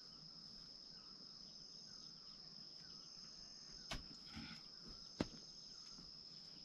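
Faint, steady high-pitched insect drone, like crickets or cicadas, with two sharp knocks about four and five seconds in.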